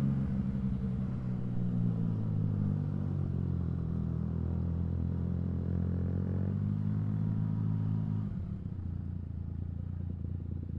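Yamaha XSR900's three-cylinder engine running steadily, heard from the rider's position; its note softens and drops a little about eight seconds in, as the throttle eases.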